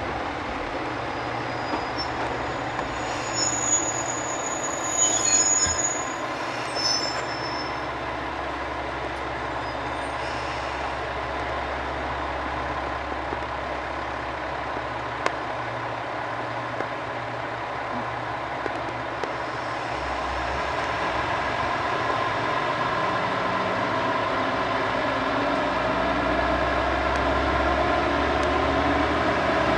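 Diesel railcar running on the rails, with short high wheel squeals in the first few seconds. A low rumble then sets in and the sound grows steadily louder.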